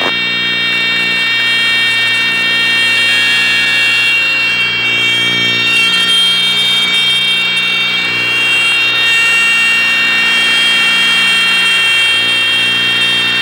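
Light twin's engines droning in the cabin with a steady, high-pitched stall warning horn sounding over them, as the aircraft reaches the first indications of a stall during a single-engine VMC demonstration.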